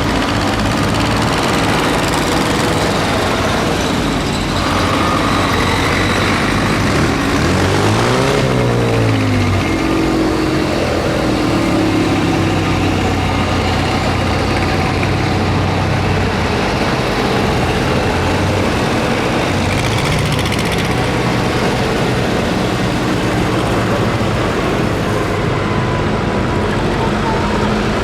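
Tractor engines running at an outdoor show. About eight seconds in, one engine's pitch briefly rises and falls.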